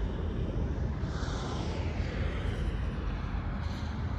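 Distant diesel locomotives of an approaching coal train, a low steady engine sound from far down the line, mixed with wind noise on the microphone.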